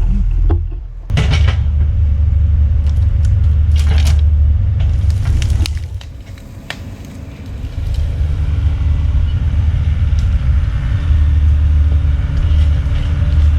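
Bobcat E45 mini excavator's diesel engine running under load as it pulls brush, with sharp cracks and snaps of branches during the first half. A steady hum joins the engine noise in the second half.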